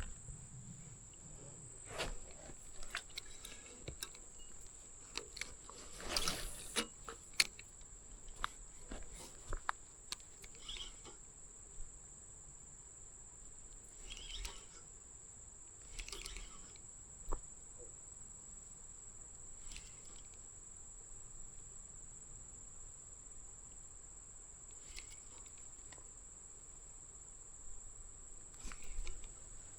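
Steady high-pitched insect drone, with scattered small clicks and knocks and a few brief rustles.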